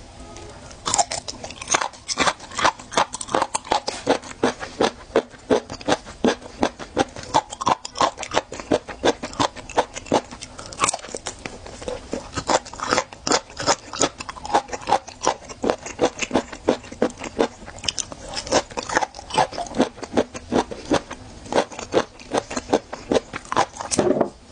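Close-miked chewing of raw geoduck clam: a quick, steady run of crisp, wet crunches as the firm flesh is bitten and chewed, starting about a second in.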